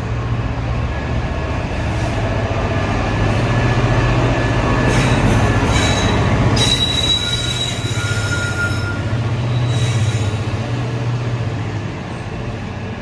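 Class 66 diesel-electric locomotive's EMD two-stroke V12 engine working under full power as it passes, a steady heavy beat, with high-pitched wheel squeal breaking in around the middle.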